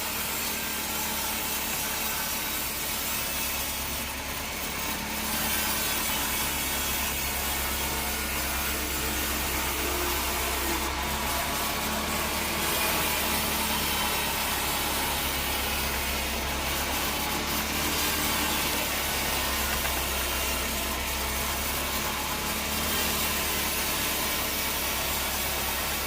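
Band sawmill cutting a teak log: a steady run of sawing noise over a low, even motor hum, a little louder from about six seconds in.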